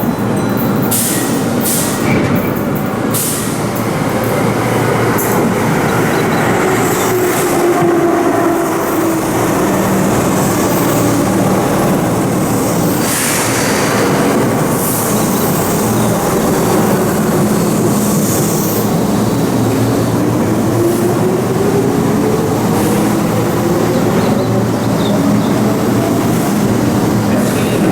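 Keihan 6000-series electric train running through the station with continuous wheel and rail noise. A motor whine slowly sinks in pitch for about twenty seconds and then climbs again toward the end.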